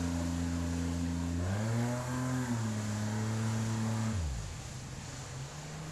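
Outboard motor of an inflatable jet boat running, revving up about a second and a half in, then throttled back sharply about four seconds in, with a steady hiss of water under it.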